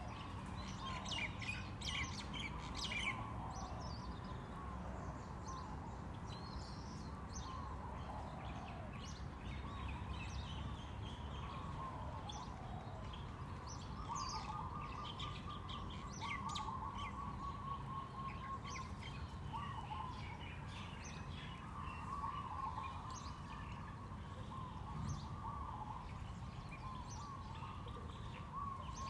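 Wild birds chirping and singing: many short, high chirps throughout, over a lower, wavering warble and a steady low background rumble.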